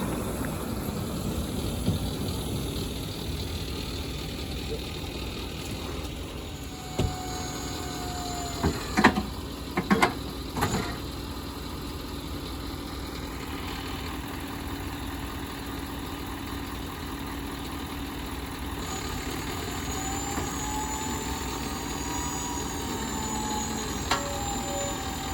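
Diesel locomotive engine idling steadily, with a few sharp metallic knocks and clanks about seven to eleven seconds in.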